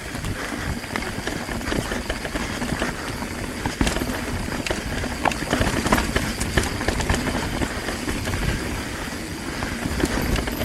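Mountain bike descending a rough, rooty trail: a steady rumble of tyres over rocks and roots, with frequent rattling knocks from the bike.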